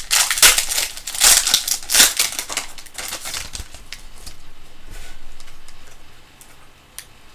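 Plastic-foil trading-card pack wrapper crinkling as it is handled and opened. It is loudest during the first three seconds, fades to a light rustle, and ends with a single click.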